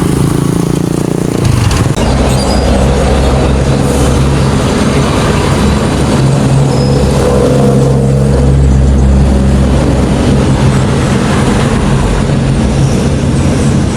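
A motor vehicle's engine running steadily, with a continuous low hum and road noise. It shifts to a deeper, steadier drone about a second and a half in.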